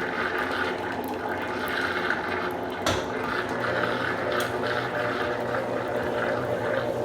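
Consul Supercargo 8 kg (CWL08C) top-loading washing machine starting its spin cycle, with water rushing out as it drains from a load of towels. There is a sharp click about three seconds in, after which a low steady hum comes up.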